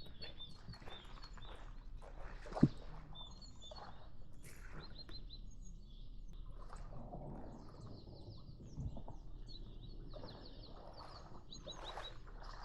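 Small birds chirping in short repeated calls, with scattered rustles and knocks and one sharp knock about two and a half seconds in.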